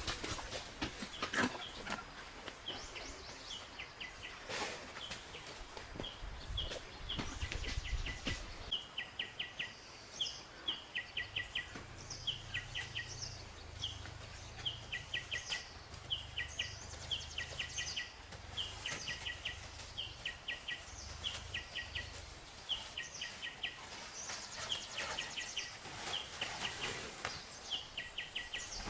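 A bird calling over and over in short chirping groups of a few quick notes, about one group a second. A few sharp knocks or clicks come in the first several seconds.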